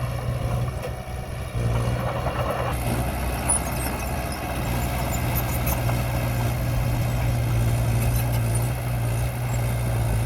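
Diesel engine of heavy earthmoving equipment running steadily with a deep hum, getting a little louder about one and a half seconds in.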